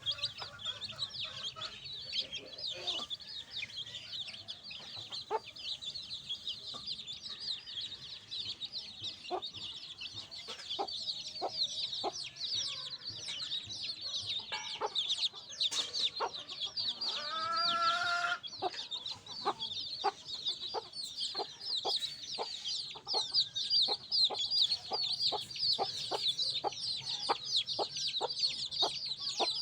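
A flock of baby chicks peeping continuously in rapid high chirps, with many sharp clicks or taps through the second half and one lower, longer call about seventeen seconds in.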